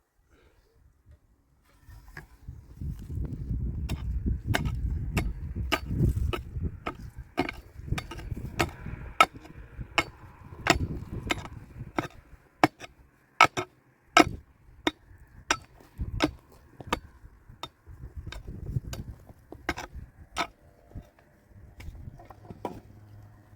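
A hand tool striking again and again, about two sharp blows a second, with a low rumble underneath.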